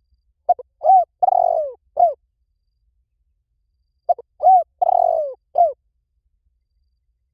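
Spotted dove cooing: two phrases of several low, arched coos each, about three and a half seconds apart.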